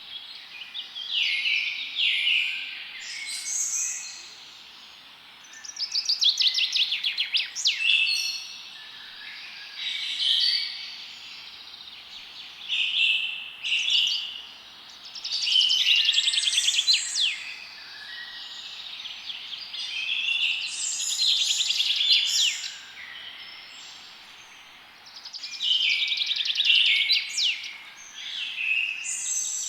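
Songbirds singing in a forest, short chirping phrases coming every few seconds, several of them fast trills, over a steady background hiss.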